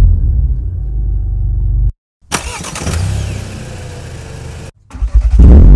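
Volkswagen Scirocco R's turbocharged 2.0 TSI four-cylinder starting and running in short edited pieces. It runs low and settling, breaks off abruptly, then fires with a sudden loud burst about two seconds in and eases toward idle. Near the end it revs with a climbing pitch.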